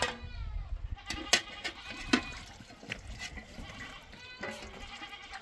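A flock bleating in several calls, with a few sharp knocks near the start and around one and two seconds in.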